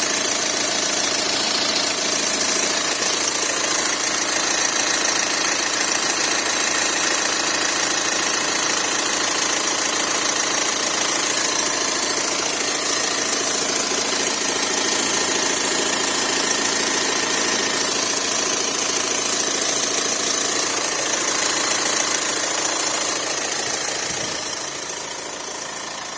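Volkswagen Amarok's 2.0-litre four-cylinder TDI diesel engine idling steadily, running after work on its thermostat housing and coolant hoses. It gets a little quieter over the last few seconds.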